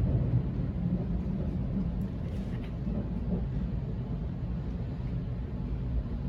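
Sydney Trains Waratah electric train running, heard from on board: a steady low rumble of the wheels and running gear on the track.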